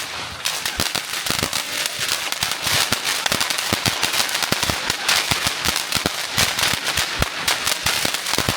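Firecrackers going off in a rapid, continuous crackle of sharp bangs.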